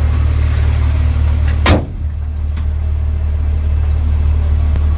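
Race truck's diesel engine running steadily, heard from inside the cab, with one sharp, loud burst a little under two seconds in, after which the engine is slightly quieter.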